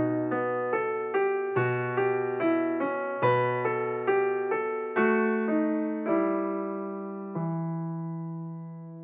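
Background solo piano music: single notes and chords struck about twice a second. A last chord comes about seven seconds in and is held, fading away.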